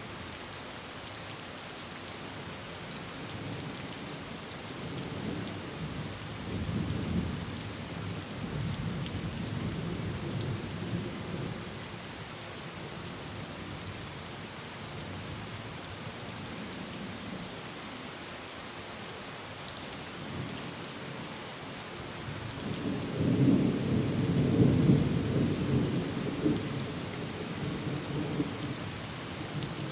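Heavy rain falling steadily on a tin roof, with two low rolls of thunder: one building about five seconds in, and a louder one about two-thirds of the way through.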